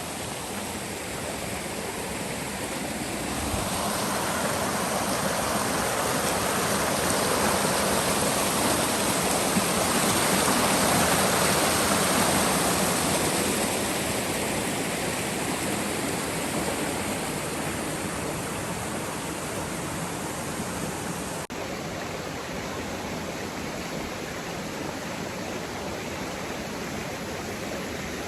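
Steady rush of running water from a stream, swelling louder for several seconds near the start and easing off again, with a brief break about two-thirds of the way in.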